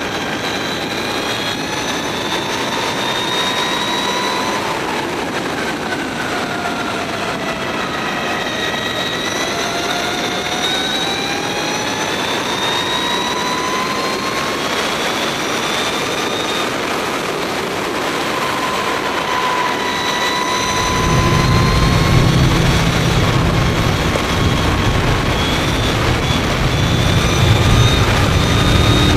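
Mavizen TTX02 electric motorcycle's motor whining at speed, several high tones sliding up and down together as the bike speeds up and slows, over a rush of wind noise. About two-thirds through, a heavy low rumble sets in and stays.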